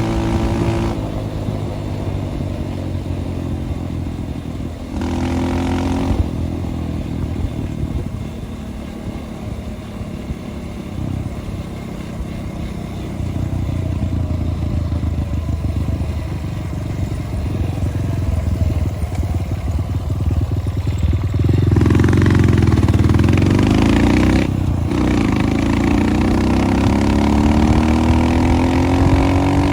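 Dirt bike engine running under a rider on a trail, revving up and easing off as the throttle opens and closes: the pitch climbs sharply about five seconds in, and again in repeated rising and falling sweeps over the last third.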